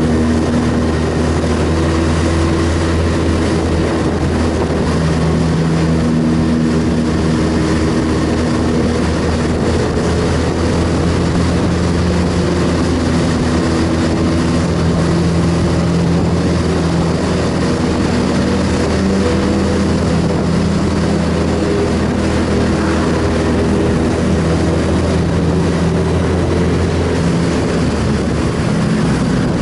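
Sport motorcycle engine running steadily while riding, its pitch shifting now and then with throttle, over a constant rush of wind and road noise.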